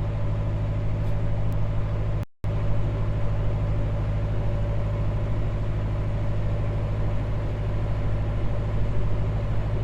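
Narrowboat's inboard engine running steadily under way, a constant low hum with a steady higher tone over it; the sound cuts out completely for a moment about two seconds in.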